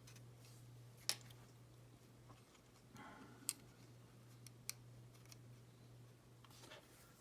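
A few faint, sharp clicks of a small screwdriver against tiny screws and plastic model parts being fitted, spaced a second or more apart, over a steady low hum.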